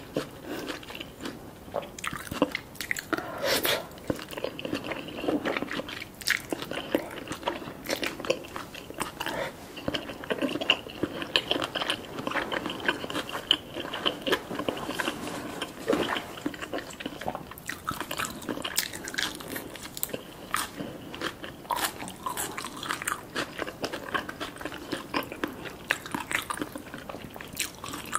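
A person chewing a mouthful of spicy green papaya salad with salmon sashimi, with a steady run of crunching and wet mouth sounds.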